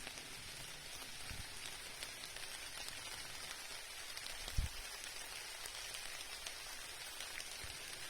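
Steady rain with many small drop ticks, with one dull low thump about four and a half seconds in.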